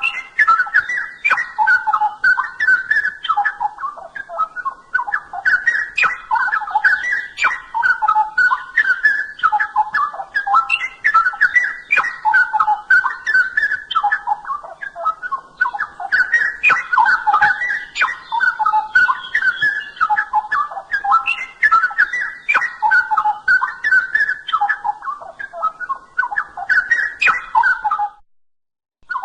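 Straw-headed bulbul (cucak rowo) singing continuously in rich, warbling phrases, stopping briefly about a second before the end.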